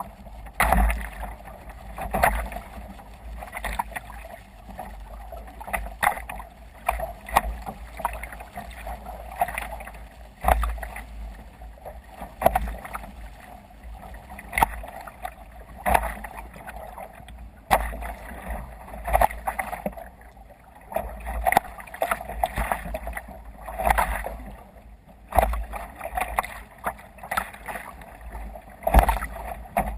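Water splashing and slapping against a sea kayak's hull as it runs through waves, in irregular bursts every second or two over a steady low rumble.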